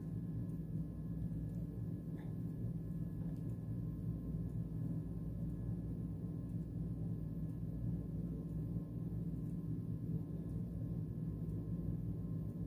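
Steady low background hum with faint high steady tones, unchanging throughout.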